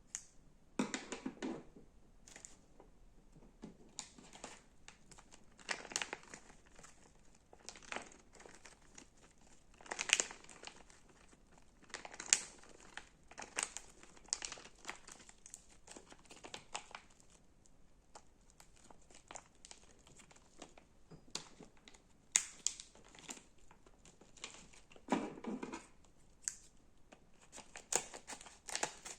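Slime being squeezed and pressed by hand, giving irregular clusters of crackling clicks and pops, some groups longer and louder than others.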